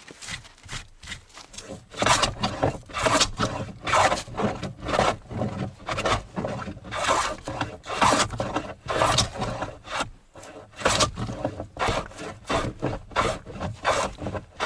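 Hand plane being pushed along a knotty spruce board in repeated strokes, about one a second, a rasping scrape of the blade on the wood.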